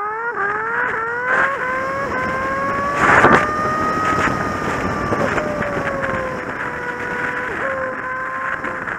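Kawasaki Z750 inline-four motorcycle engine accelerating through the gears, its pitch climbing in a series of short rises with a small drop at each upshift. It then holds a steady pitch at cruising speed. A brief loud rush of noise comes about three seconds in.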